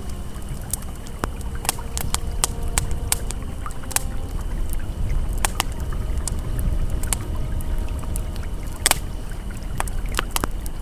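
Campfire crackling with scattered sharp pops, one louder pop about nine seconds in, over the steady low rush of a flowing river. Faint sustained ambient tones sit underneath.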